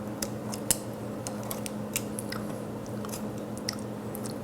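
Scattered small clicks and ticks of pliers and fingers working wire connectors off a sterilizer's water pump terminals, over a steady low hum.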